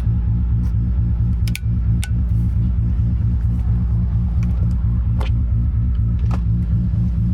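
Toyota Supra MK4's turbocharged 2JZ-GTE straight-six running at steady low revs, heard from inside the cabin. A few sharp clicks are scattered through it.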